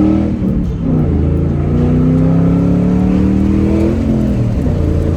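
Ford Mustang with an MBRP axle-back exhaust accelerating hard. The engine note climbs steadily in pitch, drops at a gear change about half a second in, climbs again, and drops at a second upshift about four seconds in.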